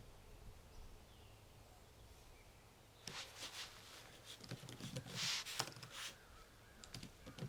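Faint outdoor ambience with a few soft bird chirps, then from about three seconds in, irregular computer keyboard typing, with a brief rustle partway through.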